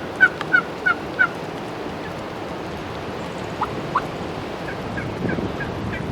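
Turkey yelping: a run of about five short, evenly spaced yelps in the first second and a half, two short rising notes about three and a half seconds in, and a fainter run of yelps near the end.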